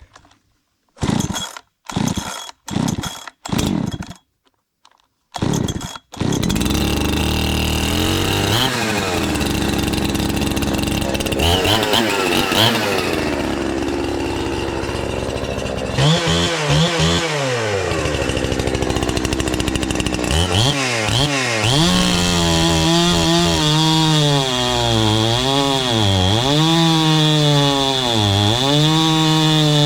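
Husqvarna 372 clone two-stroke chainsaw: a few short pulls of the starter, then the engine catches about six seconds in and runs. It is revved up and back down several times, and in the last part its pitch dips and rises again and again in quick succession.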